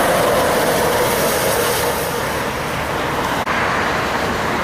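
Heavy truck passing close by: steady loud engine and tyre noise, with a tone that sinks slightly and fades over the first two seconds. The sound drops out briefly about three and a half seconds in.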